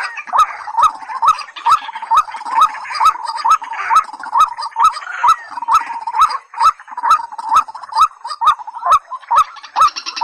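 Rail call recording (white-breasted waterhen or watercock), a short rising note repeated about twice a second in a steady series, each note with a sharp click.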